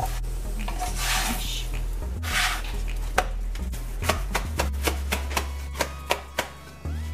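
A spatula scraping and lifting an oil roti on a nonstick griddle, twice, then hands clapping the hot roti between the palms in a run of about ten sharp slaps to break it into soft, flaky layers. Background music plays underneath.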